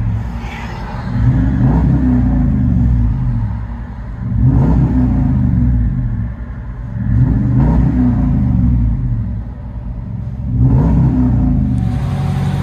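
2010 Dodge Ram 1500's 5.7-litre HEMI V8 revved about four times from idle, heard from inside the cab, through a 3-inch dual exhaust with a Black Widow Race Venom muffler and 5-inch tips.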